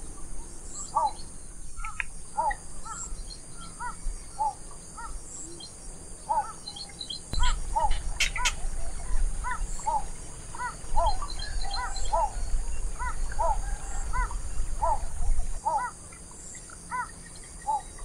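Small birds chirping: short, clipped calls repeated irregularly, over a steady high-pitched insect drone. A low rumble runs underneath from about seven to about fifteen seconds in.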